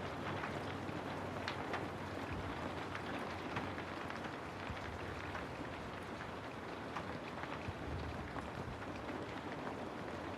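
Steady rainfall, with scattered single drops tapping through the even hiss.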